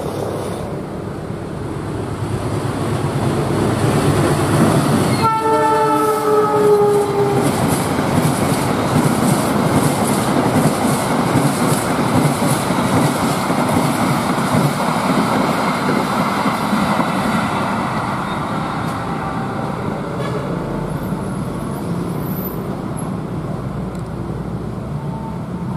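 Diesel-hauled long-distance passenger train running past at speed, its wheels rumbling and clattering over the rails. The horn sounds once about five seconds in, a blast of about two seconds that dips slightly in pitch at its end.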